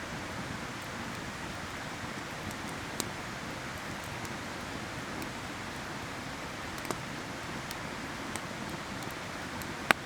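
Stream water rushing steadily, with a few sharp crackles and pops from a wood campfire, the loudest just at the end.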